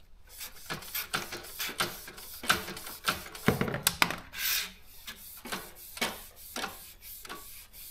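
Irregular clicks and small knocks from a Daro 20 typewriter's mechanism as its carriage and parts are handled and wiped clean, with a short rubbing sound about four and a half seconds in.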